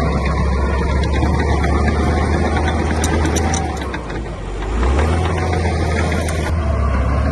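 Heavy diesel engine of construction machinery running under load, easing off briefly about four seconds in and then picking up again. A few sharp clicks come around three seconds in.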